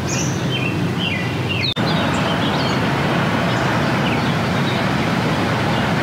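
Birds chirping in short scattered calls over a steady outdoor rushing noise, with a brief break about two seconds in.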